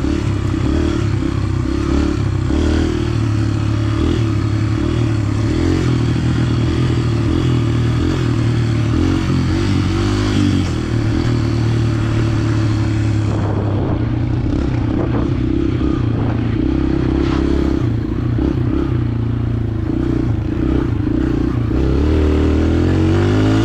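A 125cc four-stroke dirt bike engine running under load while being ridden, its pitch stepping up and down with throttle and gear changes, with a rattling clatter over it. A rushing hiss drops away about halfway through, and the engine revs up near the end.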